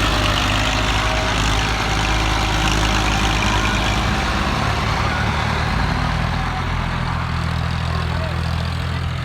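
Massey Ferguson 245 tractor's diesel engine running steadily, its note changing and getting slightly quieter about six seconds in.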